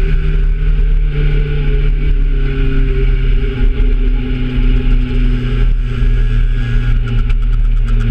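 Kawasaki Z750 motorcycle engine running loudly and continuously over a heavy low rumble, its pitch shifting a little partway through.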